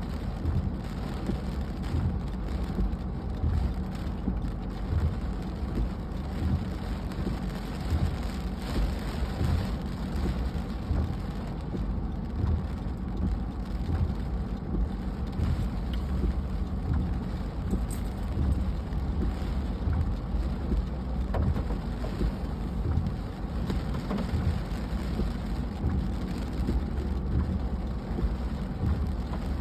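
Steady rain falling, an even patter with a constant low rumble underneath.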